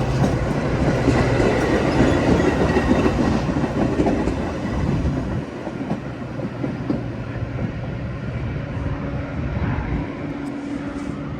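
Metra commuter train pulling away from a station, its wheels clattering over the rails. The sound is loudest for the first few seconds and drops off about halfway through, leaving a lower, steady rumble.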